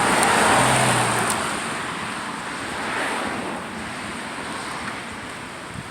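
A car passing on the road: tyre and engine noise swells about a second in, then fades away.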